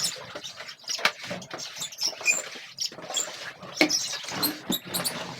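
Small pet birds chirping and squeaking in short, high calls, mixed with many scattered clicks and knocks.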